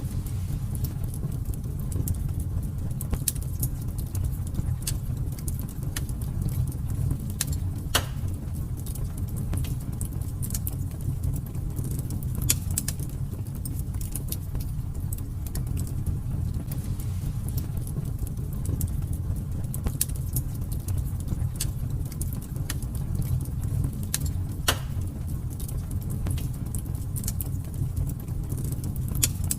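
Wood fire burning in a fireplace: a steady low rumble of flames with frequent, irregular crackles and pops, a few sharper pops standing out, about 8 and 12 seconds in and again near 25 seconds.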